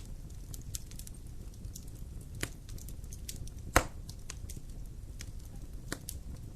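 Wood fire burning in a fireplace: a steady low rumble of flames with frequent small crackles and one loud pop a little past the middle.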